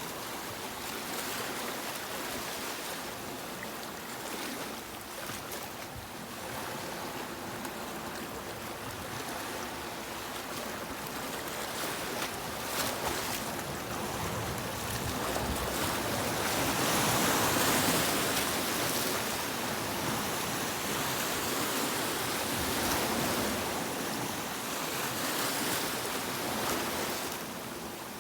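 Sea waves breaking and washing on a beach, a continuous hiss of surf that swells to its loudest about two-thirds of the way through and then eases.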